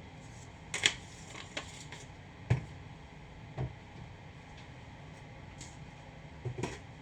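A handful of separate sharp knocks and clicks, about five spread over several seconds, as of objects being handled and set down in a kitchen, over a steady low hum.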